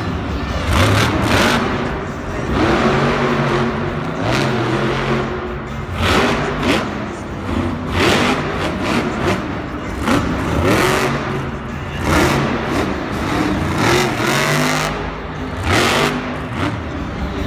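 Monster truck engines revving hard again and again, the pitch rising and falling with each blip of the throttle.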